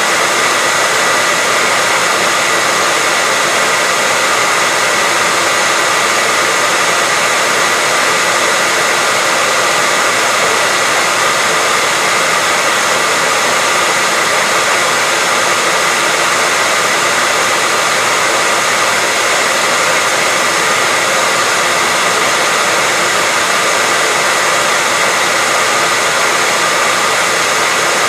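Hair dryer blowing steadily: a continuous, even rush of air with a faint steady whine from its motor, unchanging throughout.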